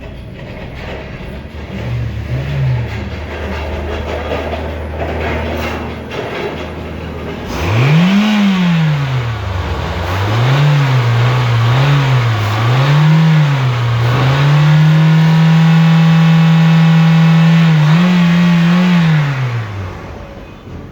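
Toyota 1NZ-FE 1.5-litre four-cylinder engine idling steadily, then revved: one rise and fall about eight seconds in, a few quick blips, held at raised revs for about four seconds, and dropping back to idle near the end. The idle is even and does not hunt, the sign of an engine running smoothly.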